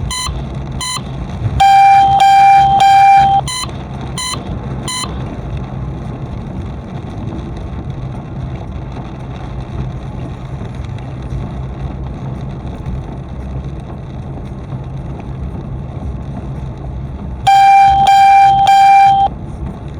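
Steady engine and road noise of a moving car, with a vehicle horn honking: several short toots in the first five seconds, a loud held blast of nearly two seconds about two seconds in, and another near the end.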